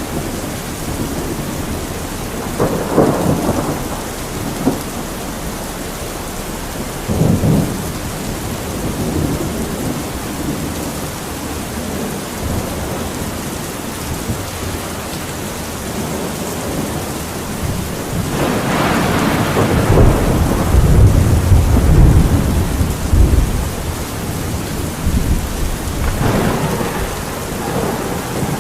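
Steady rain with thunder: short rolls of thunder about three and seven seconds in, a long low rumble from about eighteen seconds that is the loudest part, and another roll near the end.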